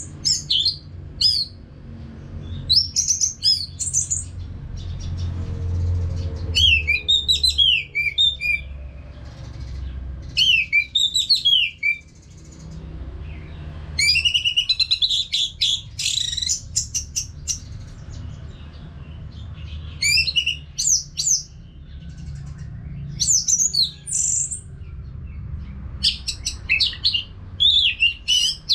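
Orange-headed thrush in full song: bouts of rapid, varied whistled phrases, each lasting a second or two, separated by short pauses, over a low background rumble.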